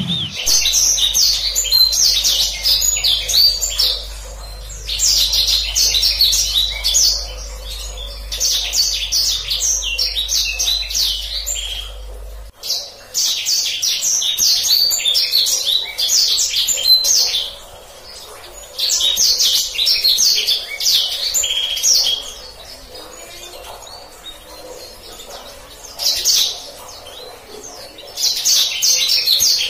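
Black-throated canary (blacksang) singing in phrases of rapid rolling trills, each a few seconds long with short pauses between them.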